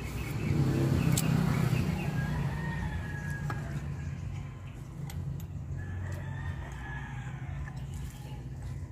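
A rooster crowing twice, each crow held for about a second and a half, over a low rumble that swells about a second in and then fades. A few light clicks are also heard.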